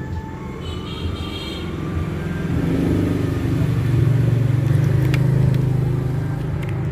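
Engine of a passing motor vehicle, a low steady hum that grows louder to a peak about four to five seconds in, then eases off.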